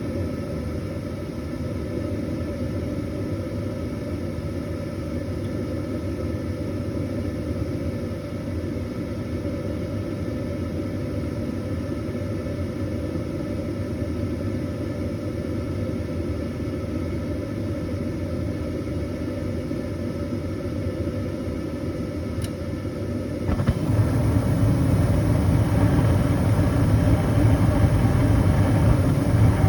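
Gas furnace running: a steady low rumble of burner flames and fan. About 23 seconds in it steps up and stays noticeably louder.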